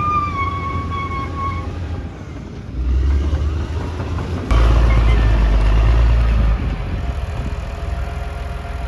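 Crawler bulldozer's diesel engine working, with its deep rumble surging twice under load, the second and louder surge lasting about two seconds, then settling back.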